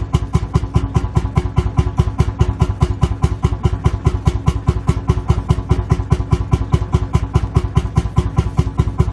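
Lanz Bulldog tractor's single-cylinder two-stroke hot-bulb engine idling with a steady, even beat of about six firing pulses a second.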